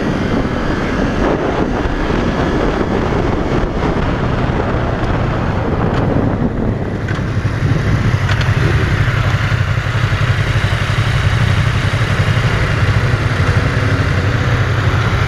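2015 Yamaha YZF-R3's parallel-twin engine running under way, mixed with wind rush. About seven seconds in, the wind noise drops away and a steady, low engine note carries on.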